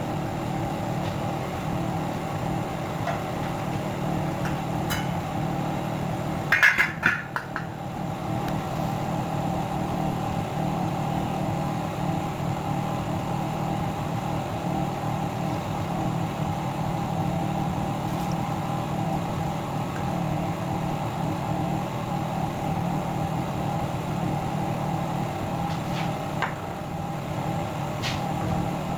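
A steady machine hum that switches on suddenly and runs evenly, with a brief clatter about seven seconds in.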